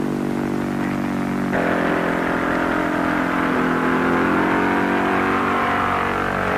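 Propeller engine of a small early airplane running hard and steadily as it takes off. Its pitch and tone change abruptly about a second and a half in.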